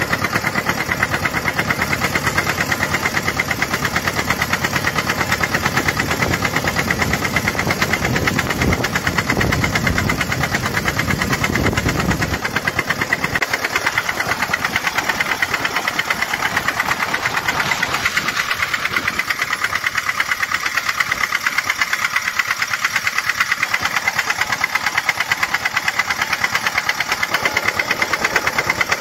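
Homemade tractor's engine running steadily with a rapid, even knocking beat; its deep low rumble drops away about halfway through.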